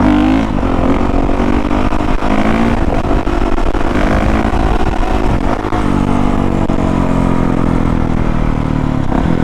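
2019 Honda CRF450R's 450cc single-cylinder four-stroke engine running under throttle while being ridden, its pitch rising and falling several times, with a clear drop about six seconds in.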